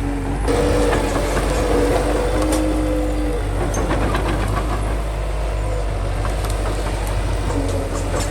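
Bulldozer's diesel engine running steadily, with a whine that sets in about half a second in, fades around three seconds and returns near the end, over scattered clicks and cracks.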